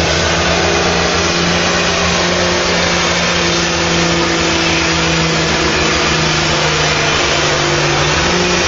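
Ford 9000's six-cylinder turbocharged diesel engine running hard at steady revs, with the pitch rising slightly near the end.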